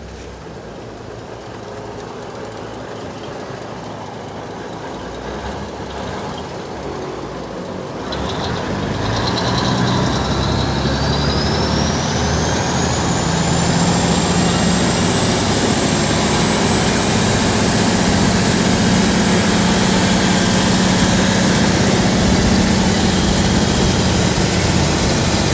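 Saen Saep canal passenger boat's engine running. About eight seconds in it grows louder as the boat picks up speed, with a high whine rising in pitch and then holding steady.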